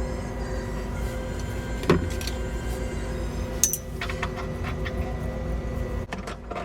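A small electric motor running steadily with a low hum, with a few sharp clicks and knocks about two seconds in, near the middle and near the end.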